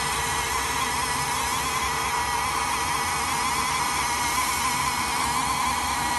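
Diamond bead wire saw running through natural stone: a steady whine made of several fixed tones over an even hiss, with no change in pitch or level.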